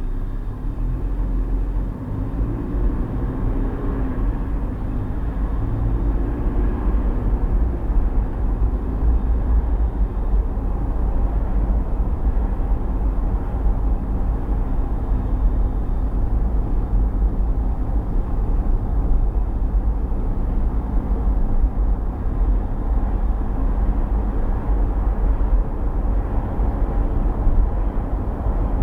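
A car driving, heard as a steady low rumble of road and engine noise. A faint engine pitch wavers up and down in the first several seconds.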